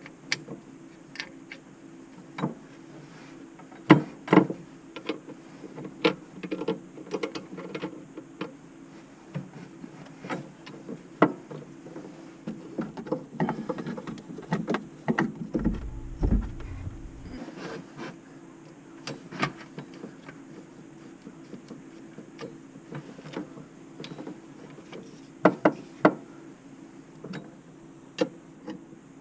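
Irregular clicks and knocks over a steady low hum, with a short low rumble about halfway through.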